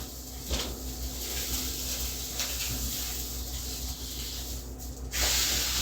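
Quiet room tone: a low steady hum with a few faint ticks. A steady hiss comes in suddenly near the end.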